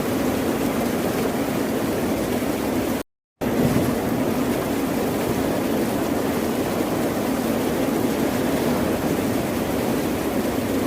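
Ocean surf, heard as a steady, dense wash of noise without distinct wave breaks. About three seconds in it cuts out to complete silence for about a third of a second, then comes back unchanged.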